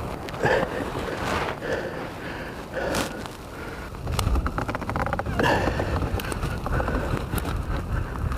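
Footsteps crunching through deep snow at an irregular walking pace, with wind buffeting the microphone and rumbling more strongly in the second half.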